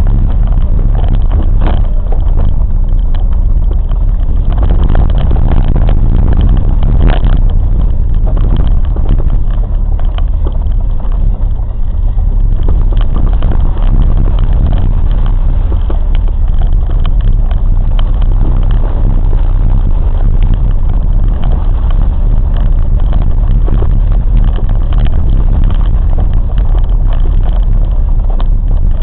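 A train in motion: a loud, steady low rumble with dense rattling and clicking throughout.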